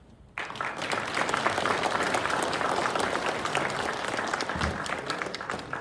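Audience applauding. The clapping starts abruptly about half a second in and goes on steadily.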